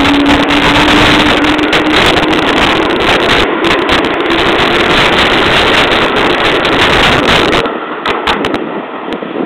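Tobu 8000 series electric train passing close by: a loud, steady rolling noise of steel wheels on rail that drops off suddenly about eight seconds in as the last car goes by.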